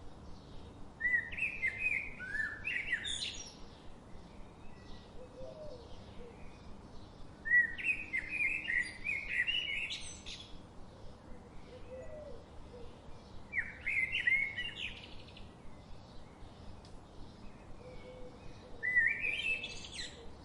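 A songbird singing a short warbled phrase four times, about every six seconds, each phrase climbing in pitch toward its end. Faint quick chirps carry on between the phrases over a steady low hiss.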